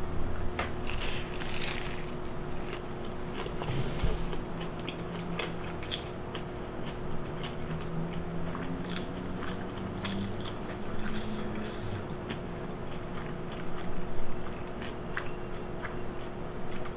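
Close-up biting and chewing of a fried chicken drumstick, with scattered irregular crunches of the fried coating over a steady faint hum.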